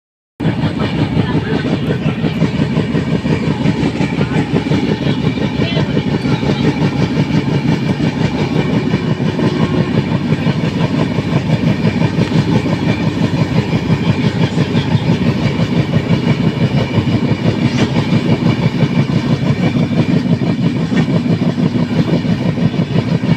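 A train running past: a loud, steady rumble with a fast, even pulsing.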